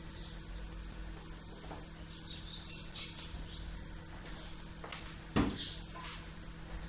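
Small birds chirping faintly and sporadically over a steady low hum, with a single sharp knock about five and a half seconds in.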